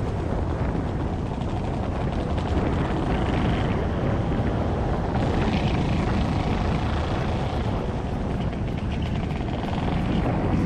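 Motor scooter engine running steadily while riding, with heavy wind rumble on the microphone.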